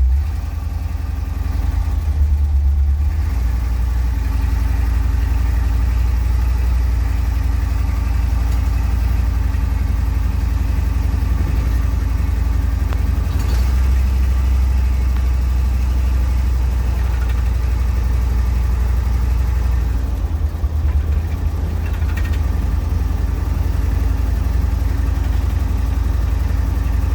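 1970 Ford Bronco's 302 V8 running steadily, with a strong low rumble and little change in pitch.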